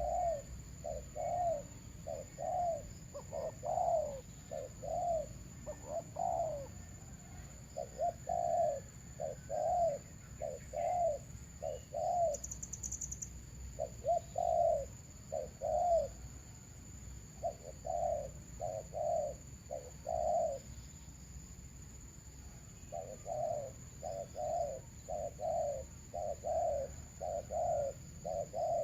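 Doves cooing: runs of short rising-and-falling notes, about two a second, broken by brief pauses, with a steady high whine underneath.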